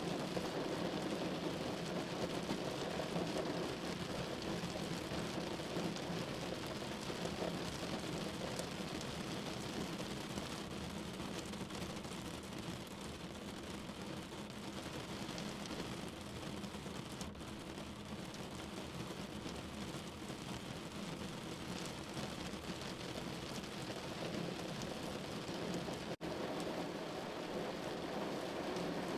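Steady rain falling on a window: a dense, even hiss of drops with a low rumble under it, easing slightly in the middle. There is a momentary drop-out in the sound near the end.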